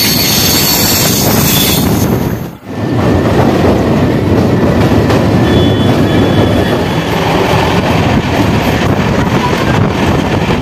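Passenger train running at speed, heard from an open coach doorway: a loud, steady rumble of wheels on rail mixed with rushing air. For about the first two seconds a high wheel squeal rides on top. The sound breaks off briefly about two and a half seconds in, then the steady rumble carries on.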